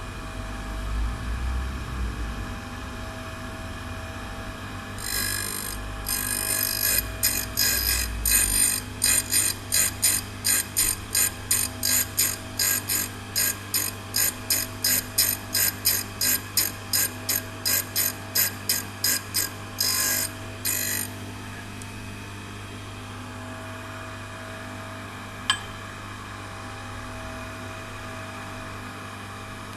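Turning-tool grinder's motor running with a steady hum. From about five seconds in, the cutter is ground against the wheel in a quick, even run of gritty rasps, about three a second, for some fifteen seconds; then the motor runs on alone. A single sharp click near the end.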